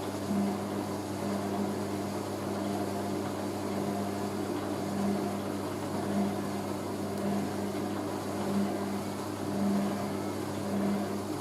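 Hoover A3060 Electronic 1100 washing machine running steadily, its motor hum swelling about once a second as the drum turns.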